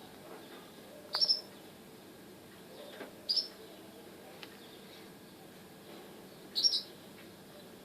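A bird giving short, high chirps three times, a few seconds apart, over a faint steady hiss.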